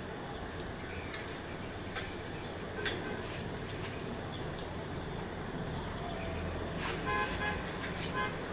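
Steady high-pitched insect chirring throughout, with three sharp metallic clicks in the first three seconds, the third the loudest. A short vehicle horn toots twice near the end.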